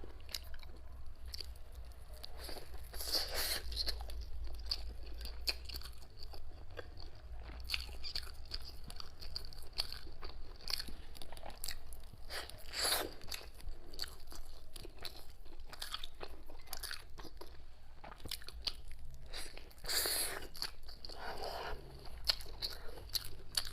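Close-miked chewing and biting of a zongzi, sticky rice dumpling with pork belly: wet mouth clicks and smacks, with a few louder bites or rustles scattered through.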